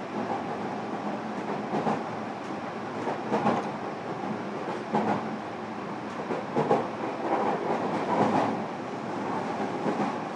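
Running sound inside a JR Kyushu 305 series electric multiple unit's motor car, heard from the passenger cabin: a steady rumble of the train at speed. Short pairs of clacks come every second and a half or so as the wheels cross rail joints.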